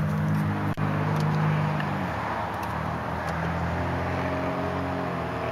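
Electric seat motors of a 2003 BMW 745i whirring as the backrest is power-adjusted: one hum stops about two seconds in and another starts a little over a second later, with a single click just under a second in. Under it the car's 4.4-litre V8 idles steadily.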